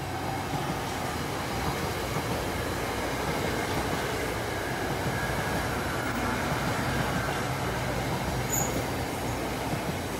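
NJ Transit electric commuter train passing through the station at speed without stopping: a steady rumble of wheels on rail that swells as the cars come by and eases slightly near the end.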